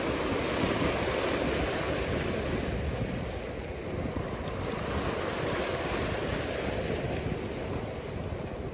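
Ocean surf breaking and washing ashore as a steady rushing noise, with wind buffeting the microphone.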